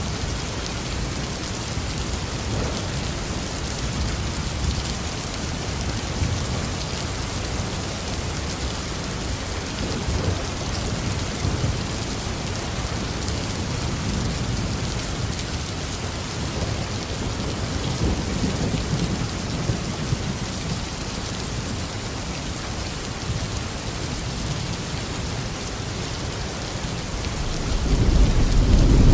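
Heavy rain falling steadily on a roof, with low rolling thunder rumbling underneath; a louder thunder rumble builds near the end.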